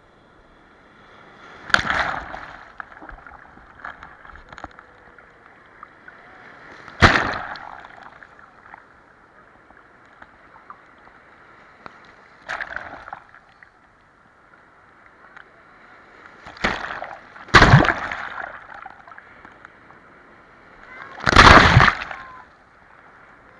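Sea waves splashing, with six loud splashes a few seconds apart, two of them close together near the middle. Each one starts suddenly and dies away within about a second, over a steady wash of water.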